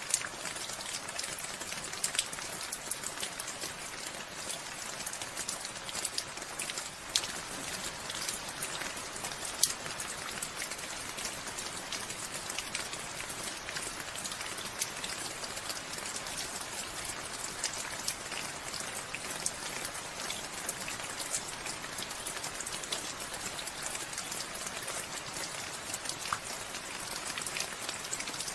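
Steady rainfall, an even hiss made up of countless drops striking surfaces, with scattered louder individual drop hits.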